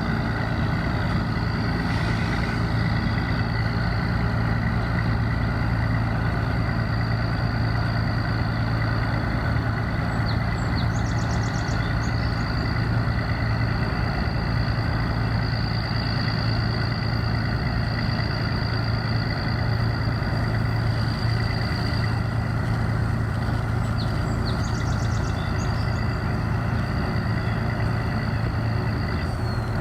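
Heavy engine running steadily at a constant speed: a low drone with a thin steady whine above it. The whine dips and fades near the end.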